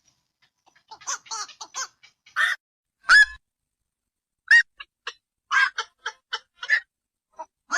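Black-crowned night herons calling: short, sharp calls in irregular clusters with gaps between them, and two louder single calls about three and four and a half seconds in.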